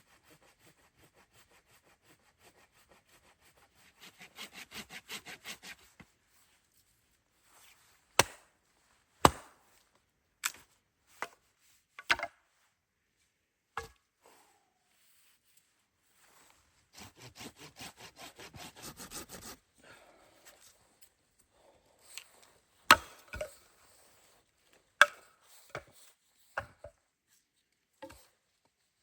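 A hand saw cuts wood in two short bouts of quick, even strokes. Between and after the bouts come sharp single knocks of wood being chopped, spaced about a second apart.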